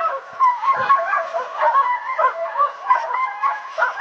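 Dogs yipping, barking and whining in a rapid string of short, high-pitched calls, the eager noise of skijoring dogs waiting to run.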